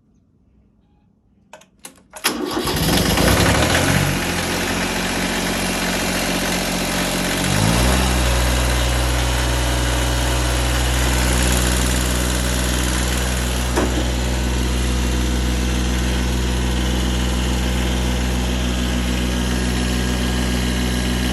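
Kubota B7100 HST's small three-cylinder diesel cold-starting in freezing weather after glow-plug preheat: a couple of clicks, then about two seconds in it cranks and fires, runs roughly for several seconds, and settles into a steady idle about eight seconds in.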